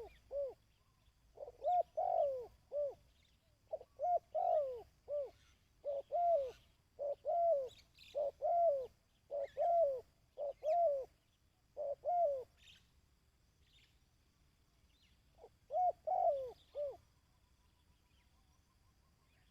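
A dove cooing in repeated phrases of three or four rising-and-falling coos, one phrase after another. After a pause of about three seconds comes one more phrase, about three-quarters of the way through.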